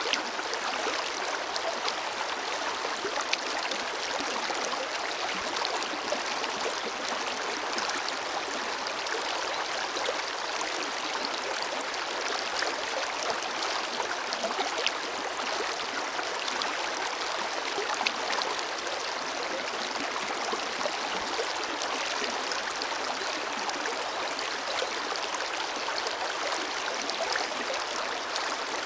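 Forest river flowing steadily over rocks: an even rush of water with small splashes and gurgles throughout.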